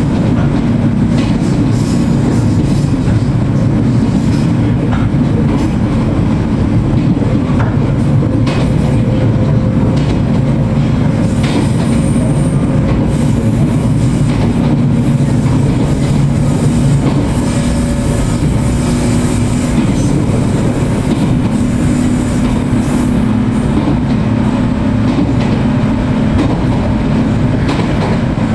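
Inside the motor car of an Echigo Tokimeki Railway 413-series electric train (MoHa 412) running at speed: a steady rumble of wheels on rail, with scattered rail-joint clicks and a low hum from the traction motors that drifts slightly in pitch.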